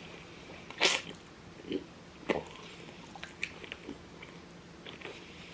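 Close-up eating sounds as someone starts on a chicken drumstick: a sharp breathy burst about a second in, then a few small clicks and smacks of the mouth biting and chewing.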